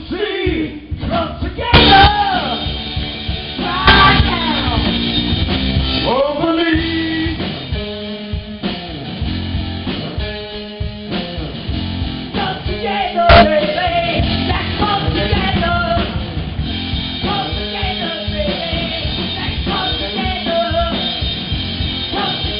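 Live rock band playing, with electric guitar, bass, drum kit and a sung lead vocal; loud crashing hits stand out about two, four and thirteen seconds in.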